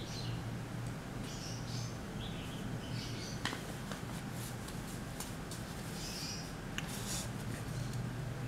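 Small birds chirping in short scattered bursts over a steady low hum, with a few light clicks.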